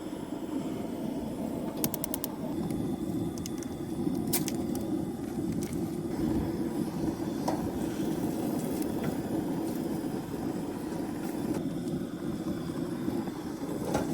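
Steady low rushing of a camp stove burner under a pan of frying steak, running hot, with a few light clicks of utensils.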